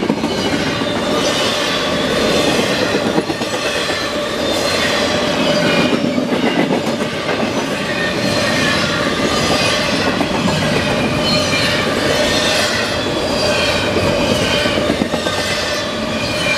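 Container cars of a CSX freight train passing at speed: a steady rumble and clatter of steel wheels on rail, with a wavering high-pitched wheel squeal over it.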